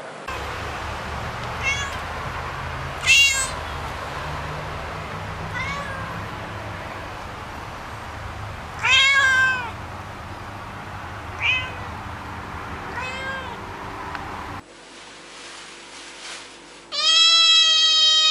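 Domestic cat meowing repeatedly, short pitched calls a few seconds apart over a steady low hum. After an abrupt change in background, a longer, louder drawn-out meow starts near the end.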